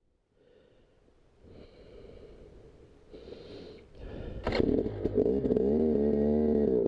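Two-stroke dirt bike engine, faint at first, then much louder from about four seconds in, with a sharp crack just after, running on with its pitch rising and falling as the throttle is worked.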